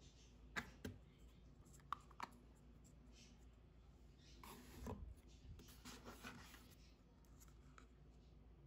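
Quiet handling sounds: a few light clicks and taps, then a few seconds of rubbing or scraping around the middle.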